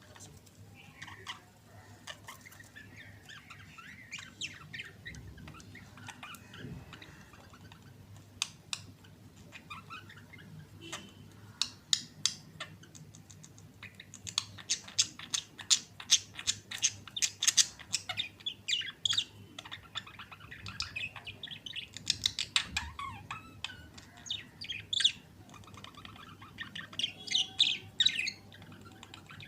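Budgerigars chattering, with soft warbling at first, then a dense run of sharp chirps and squawks from about halfway through.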